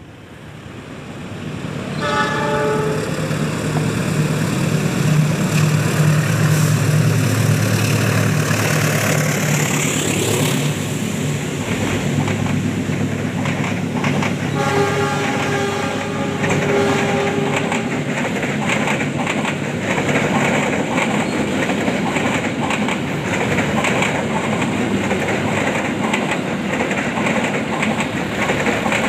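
Loco-hauled passenger train passing close by: a short horn blast about two seconds in, a deep engine rumble as the locomotive goes past, a second, longer horn blast around the middle, then the stainless-steel coaches rolling by with steady clickety-clack of wheels over the rail joints.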